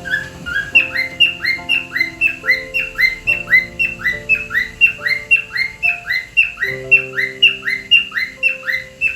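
Cockatiel whistling a fast run of short, rising whistled notes, about three a second, over soft background music with long held notes.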